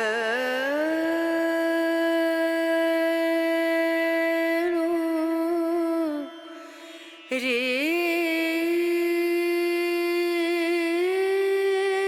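Indian classical-style vocal music: a voice holds long, drawn-out notes, sliding into them with wavering ornaments. The two long phrases are separated by a brief pause about six seconds in, and the second phrase glides down near the end.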